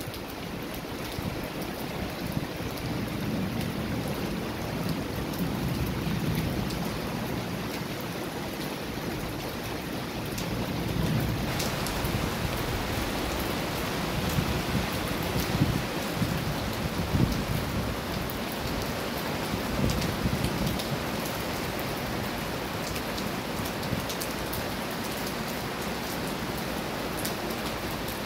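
Heavy rain falling onto a flooded street, a steady hiss of rain on standing water with many separate drop hits. The rain grows a little louder about eleven seconds in.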